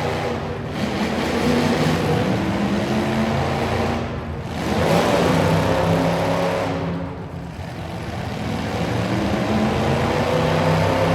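Truck engines revving hard under load, the pitch climbing and then falling off, with the level dropping briefly a few times.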